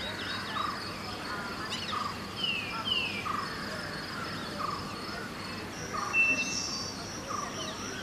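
Early-morning birdsong: several birds chirping, with a few descending whistled calls and a short note repeated steadily about every half second. Underneath is a steady high insect drone, joined by a second higher tone a few seconds in, over a faint even background noise of the city.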